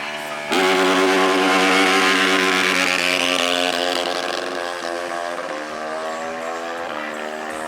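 Off-road racing engine at close range, starting suddenly and loud about half a second in at high revs. Its pitch holds, then drops in a few sudden steps through the second half.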